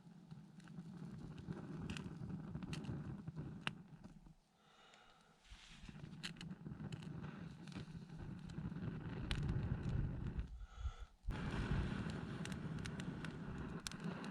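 Gusts of wind buffeting the microphone in a low rumble that drops away twice, with scattered sharp crackles from a small fatwood-and-twig fire catching.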